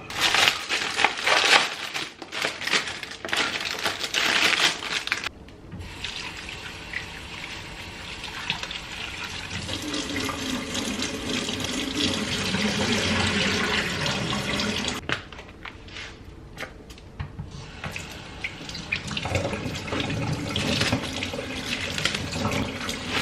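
Kitchen tap running into a sink, the stream of water splashing and changing as something is rinsed under it. It is uneven and louder in the first few seconds, steadier after, and drops off for a few seconds about two-thirds of the way through before running again.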